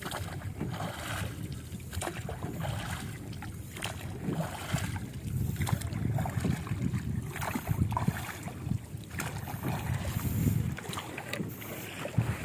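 Wind buffeting the microphone in an uneven low rumble, over the water sounds of a small wooden boat on a river.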